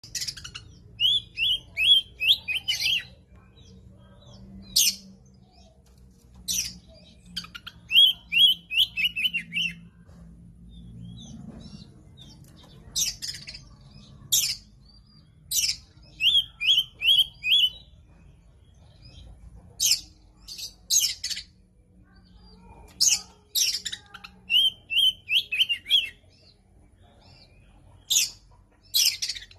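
Oriental magpie-robin (kacer) singing: repeated quick phrases of four or five sweeping whistled notes alternating with short harsh, scratchy calls, a new burst every second or two.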